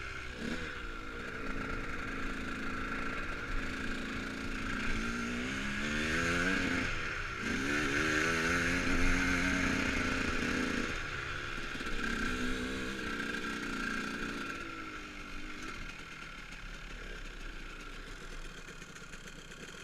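KTM dirt bike ridden hard over rough ground and a jump, its motor rising and falling in pitch in several surges, loudest near the middle and fading toward the end.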